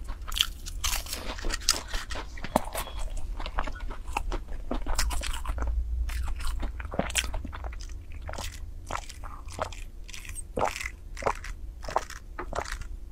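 Close-miked biting and chewing of an egg tart: irregular crunches and crackles of the pastry crust.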